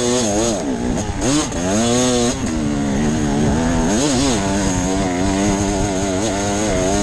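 Off-road dirt bike engine under a rider's throttle, its pitch rising and falling several times as the rider blips and rolls off, then holding a steadier note for the last couple of seconds.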